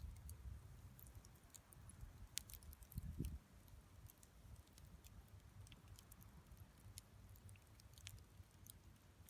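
Wood campfire crackling quietly, with scattered small sharp pops over a low rumble; a dull low thump about three seconds in.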